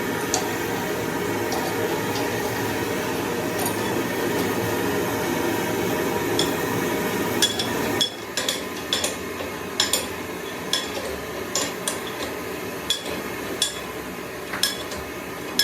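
Metal clinking and tapping, like tools knocking against engine parts, about once a second in the second half, over a steady hum that cuts off about eight seconds in.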